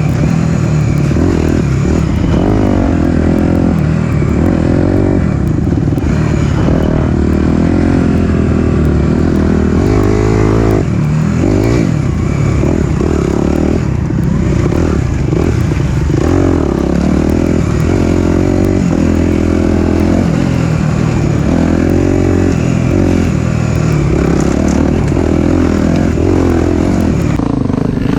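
Four-stroke single-cylinder dirt bike engine running hard on a trail ride, its pitch rising and falling every few seconds as the throttle is opened and closed.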